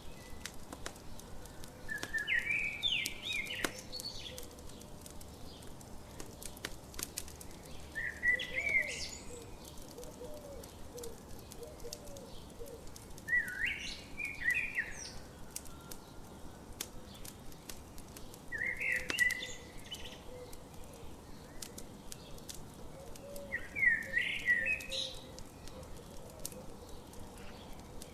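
A songbird repeating the same short song phrase five times, about every five seconds, over the light, irregular popping and crackling of a campfire.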